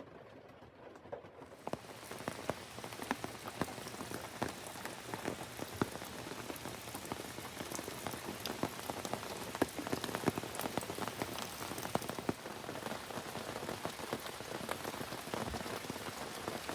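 Steady rain falling on a surface, a dense hiss dotted with distinct tapping drops, growing louder about two seconds in.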